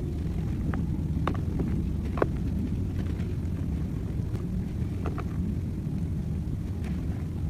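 Dried paste crumbling: a handful of sharp, scattered cracks over a steady low rumble.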